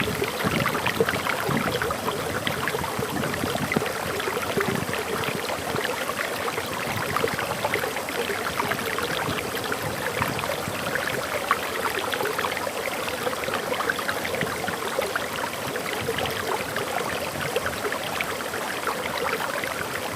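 Small forest waterfall: water pouring and splashing steadily over rocks, a continuous rushing with dense small splashes.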